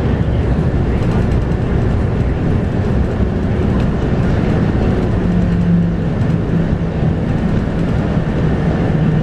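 Scania K230UB bus driving, heard from inside the passenger cabin: its 8.9-litre five-cylinder Scania DC9 diesel and ZF Ecomat 6-speed automatic give a steady drone, with a low hum coming in about halfway through and falling slightly in pitch.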